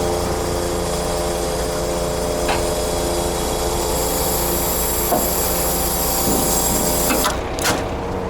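Scania truck's engine running steadily, overlaid with a high hissing noise that cuts off about seven seconds in, followed by a few sharp clicks.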